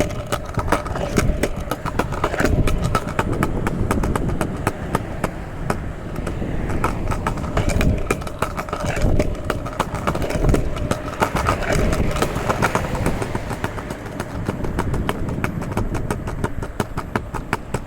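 Wheels rolling over wet street pavement: a steady low rumble with many quick clicks and rattles from the surface, with wind buffeting the microphone.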